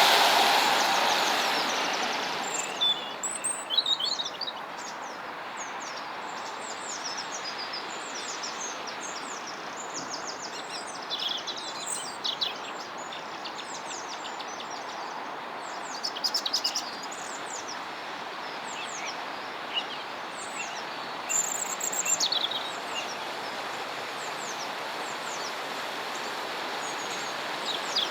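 Steady rush of flowing river water, louder for the first couple of seconds and then settling, with small birds chirping and twittering over it throughout.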